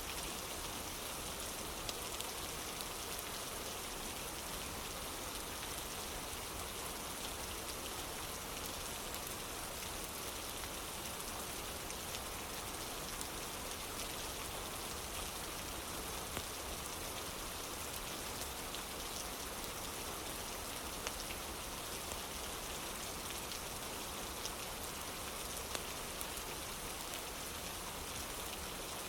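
Steady rain falling on a wooden porch, an even hiss with a few sharp ticks scattered through it.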